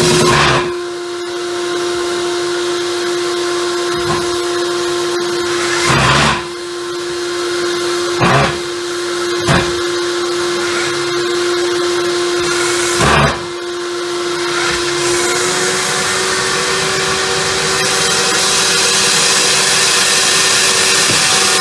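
Electric power tool motor running steadily with a loud hiss, broken by four short knocks spread through the middle. Its pitch rises slightly about two-thirds of the way in.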